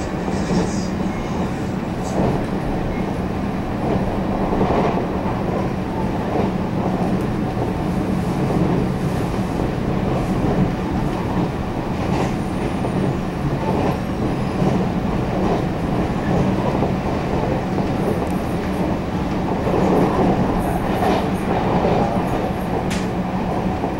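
Taiwan Railways EMU700 electric commuter train running at speed, heard from inside the passenger car: a steady rumble of wheels on rail under a constant low hum, with scattered clicks from the track.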